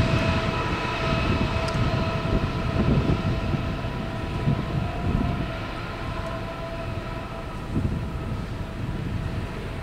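Loaded coal train passing: the diesel locomotive and its heavy hopper wagons make a dense low rumble, with several steady high tones running over it, growing slowly quieter as the train moves away.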